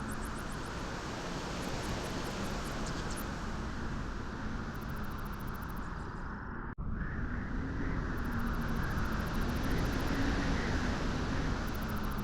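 Beach wind blowing steadily, a deep, even rushing noise, with a momentary drop-out about seven seconds in.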